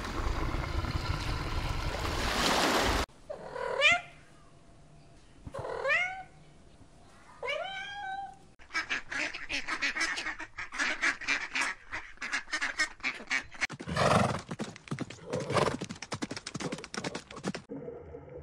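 Rushing stream water for about three seconds, then three rising calls about two seconds apart. From about nine seconds in, domestic ducks quack in a rapid, dense run until a cut near the end.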